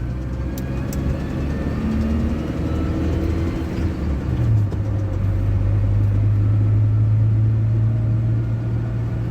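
ZMZ-405 engine of a GAZ Gazelle van running under way, heard from inside the cab as a steady drone whose note shifts about four and a half seconds in. The owner is chasing a light knock and a whistling rustle that appeared after fitting a UAZ upper timing-chain hydraulic tensioner, which he suspects comes from the timing chain.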